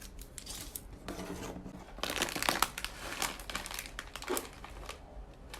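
Plastic snack packaging crinkling and crackling as it is handled. The crackling gets louder and busier about two seconds in.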